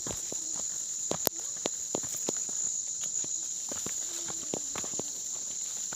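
Steady high-pitched chirring of insects in a field, with scattered short clicks and knocks over it.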